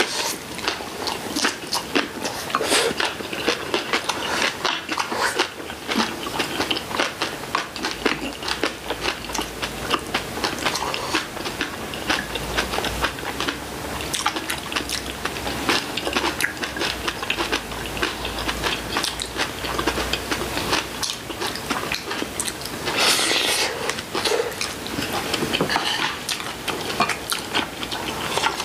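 Close-miked chewing and crunching of raw and kimchi vegetables such as green onion kimchi and seasoned greens, with many quick wet mouth clicks and crackles throughout.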